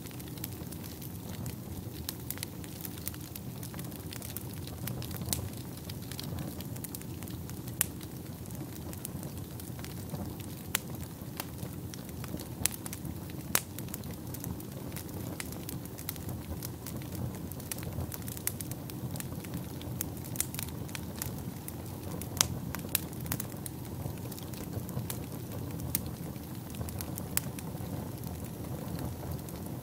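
Wood fire burning in a fireplace: a steady low rumble of flames with frequent sharp crackles and occasional louder pops.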